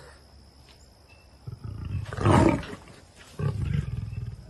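A big cat giving two rough, throaty roaring calls: the first and loudest begins about a second and a half in, and a shorter one follows about a second later.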